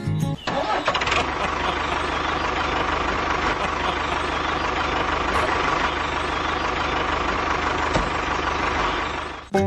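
An engine or motor running steadily, with a constant mechanical rattle and a steady hum; it starts about half a second in and cuts off just before the end.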